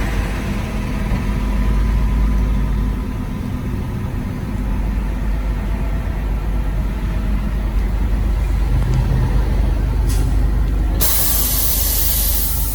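Charter coach's engine running with a steady low rumble, heard from on board. About ten seconds in a short hiss of compressed air, then a second, louder air-brake hiss from about eleven seconds to the end.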